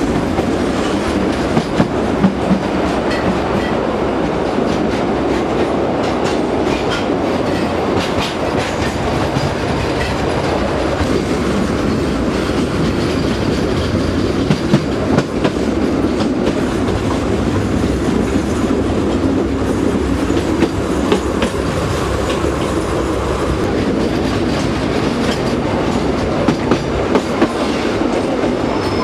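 Narrow-gauge (760 mm) diesel-hauled train running along the track: a steady rumble of wheels on rails, with sharp clacks here and there, a few louder ones about 1.5, 8, 15 and 27 seconds in.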